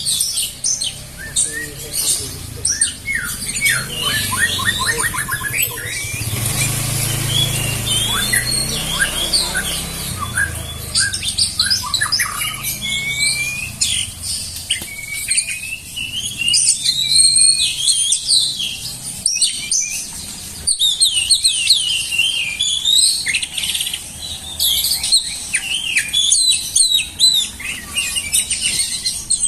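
Songbirds singing continuously: a dense, overlapping mix of quick chirps, rapid trills and whistled phrases. A low rumble sits beneath the song for a few seconds near the first third.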